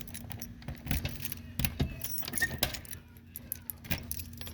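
Irregular light clicks and rattles, like keys jingling or small metal parts being handled, over a faint steady hum.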